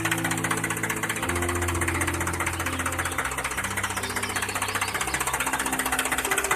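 Small electric motor of a miniature DIY toy tractor running with a steady fast buzz, over background music with held bass notes that change about every second.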